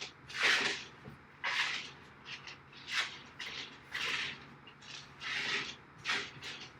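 About ten short, irregular scraping and rubbing strokes, from hardware being handled and worked by hand.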